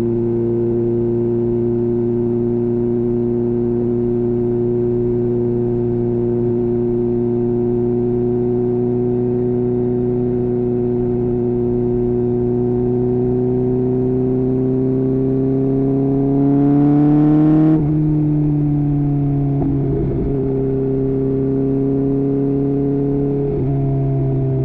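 Kawasaki Ninja H2's supercharged inline-four engine running at a steady cruise. About halfway through it accelerates, the pitch climbing and the sound growing louder. Then the pitch drops suddenly and it settles back to a steady, lower note.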